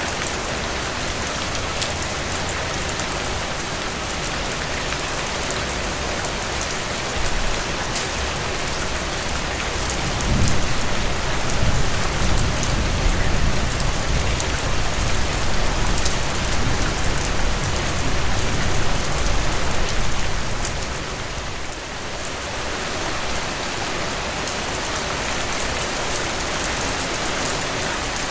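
Steady rainfall, a dense hiss with individual drops ticking on a surface. A deeper low rumble swells from about ten seconds in and fades just after twenty seconds.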